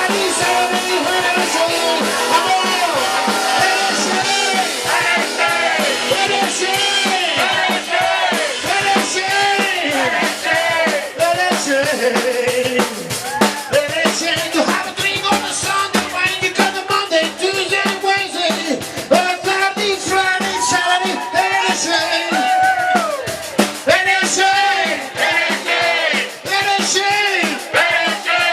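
Live rock and roll band playing an instrumental passage, drum kit keeping a steady beat under a bending, wavering lead line.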